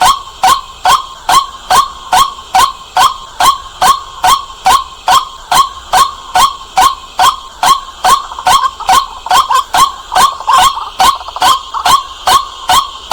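White-breasted waterhen calling: a loud, clear, sharp note repeated very evenly, about three times a second.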